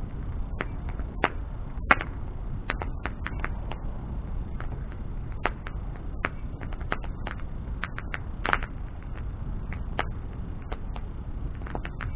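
Wood bonfire crackling: irregular sharp pops and snaps over a steady low rumble of the flames, with two louder pops about two seconds in and near eight and a half seconds.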